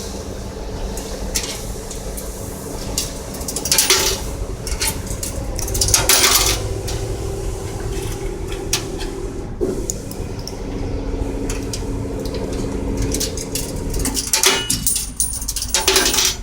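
Metal clanks and clatter from a coin-operated vending machine being worked, a few loud clanks among smaller clicks, over a steady mechanical hum; the machine is empty, so nothing is dispensed.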